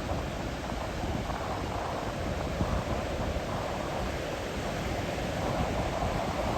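Ocean surf breaking on the shore as a steady rush, with wind buffeting the microphone in an irregular low rumble.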